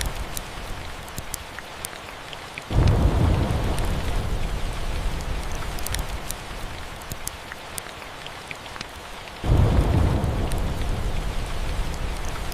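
Steady rain with two rolls of thunder, one about a fifth of the way in and one about three quarters in, each starting suddenly as a deep rumble and fading over a few seconds. Light crackles of a wood fire sit over the rain.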